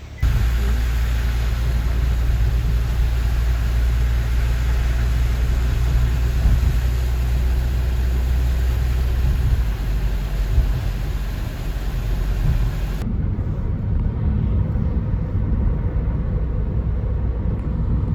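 Steady road noise of a moving car: a deep, constant rumble with a hiss of tyre and wind noise over it. About 13 seconds in the hiss cuts off abruptly and a rougher low rumble carries on.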